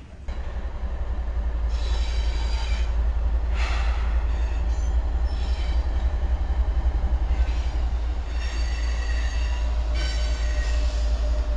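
Canadian National diesel locomotives passing close with a heavy low rumble, their wheels squealing in several short, high-pitched bursts.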